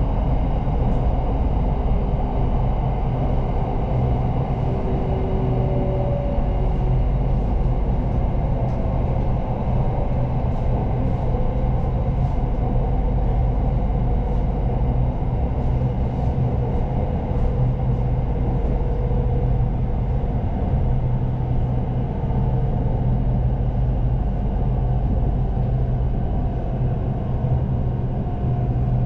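Red Line electric commuter train running at speed: a steady low rumble with a few short, faint whines.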